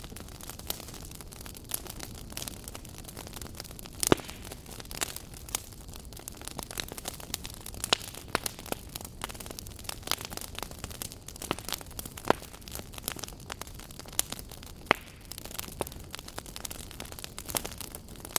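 Wood fire burning in a fireplace: a steady soft rumble with irregular sharp crackles and pops, a few louder snaps standing out.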